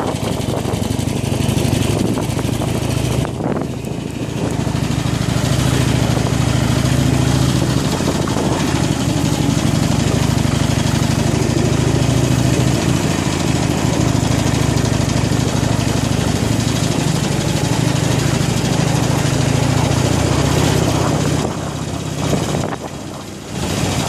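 Harley-Davidson Iron 883's air-cooled V-twin engine running steadily while the motorcycle is ridden, with wind and road noise over it. The engine note drops briefly a few seconds in and again near the end.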